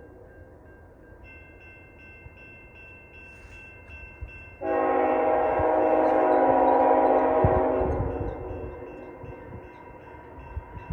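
Diesel locomotive air horn sounding one long blast of several chimes at once, about halfway through, lasting around three seconds and fading, as the freight approaches a grade crossing. Before it, a fainter pulsing ringing is heard.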